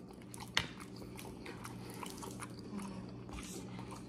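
A person chewing food, with many small wet mouth clicks and one sharper click about half a second in, over a faint low steady hum.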